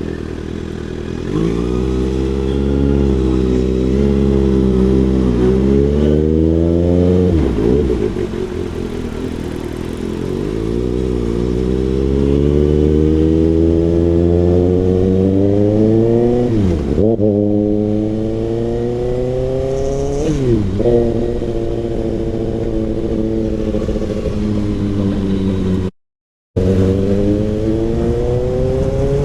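Kawasaki ZX-6R inline-four through an SC-Project CRT exhaust, riding under acceleration: the engine note climbs steadily and drops sharply at each upshift, three times, then climbs again. The sound cuts out for a moment near the end.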